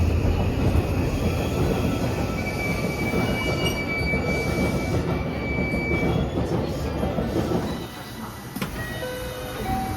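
JR West 323 Series electric multiple unit running on the rails, with steady wheel-and-track rumble and a thin, high wheel squeal for a few seconds in the middle. The running noise drops somewhat near the end.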